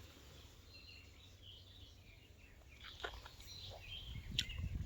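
Faint birds chirping in short scattered calls over a quiet outdoor background, with a few sharp clicks and soft rustling growing louder near the end.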